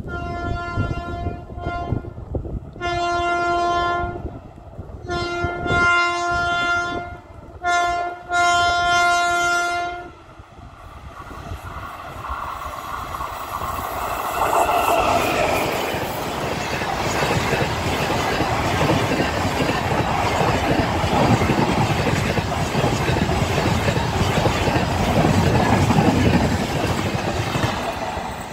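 The horn of a WAP-5 electric locomotive sounding a series of long blasts, a few seconds apart, as the express approaches. After the last blast the locomotive and coaches pass at about 110 km/h, and a loud, steady rush of wheels on rail builds and holds until it eases off near the end.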